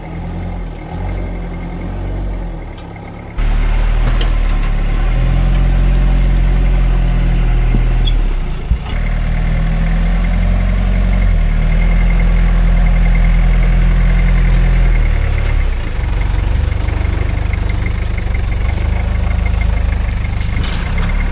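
Off-road rock-crawling truck engine running at low revs, the note rising and falling slightly as it crawls, with an abrupt jump to a louder engine about three seconds in and another change near nine seconds.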